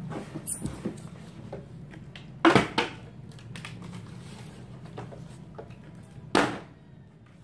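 Plastic bottle being flipped and landing with a thud about two and a half seconds in, bouncing once right after, then landing again with a single thud near the end. A steady low hum runs underneath.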